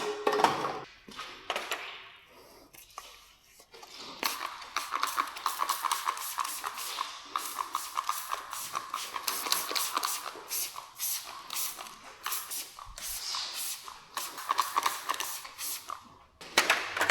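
Rapid, irregular scratchy scrubbing strokes, like a brush worked quickly over a car surface during detailing. They start about four seconds in after a quiet moment and run on until near the end.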